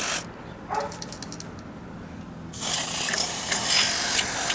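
Aerosol can of WD-40 fast-drying contact cleaner spraying in two bursts onto the microwave's switch connectors to clean them. A short hiss ends just after the start, then a longer hiss of about two seconds begins halfway through, with a few light clicks between.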